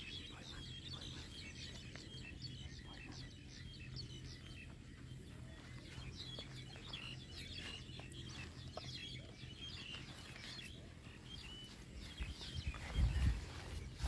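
Small birds chirping in many short, high calls, over a steady low hum. A few loud low thumps come near the end.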